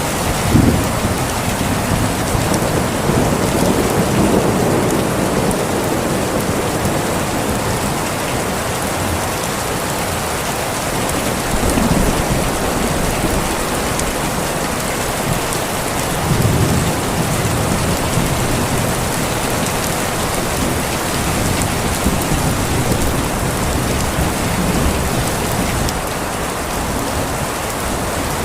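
Steady heavy rain falling, with low rolls of thunder rumbling under it near the start and twice more around the middle.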